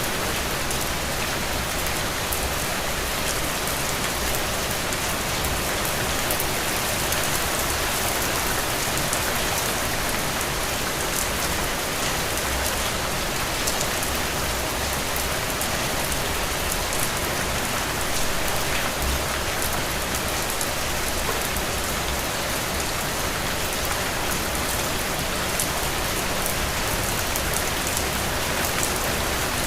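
Steady, heavy rain falling, a dense even hiss with many fine drop ticks.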